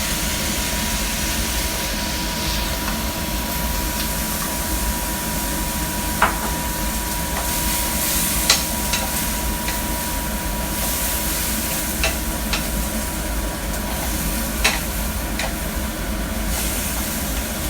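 Broccoli and other vegetables sizzling in a hot pan as they are stir-fried, with a spatula knocking sharply against the pan five or six times, over a steady low rumble.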